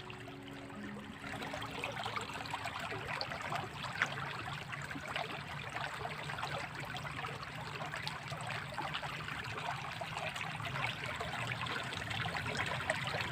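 Water running steadily in a small drainage ditch, an even trickling flow with one faint click about four seconds in.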